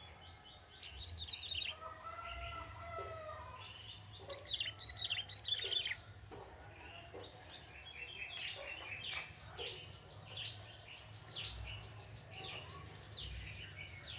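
Young male ciblek tebu, a prinia, singing in bursts of rapid, high chirping trills, with some lower, drawn-out notes about two to four seconds in.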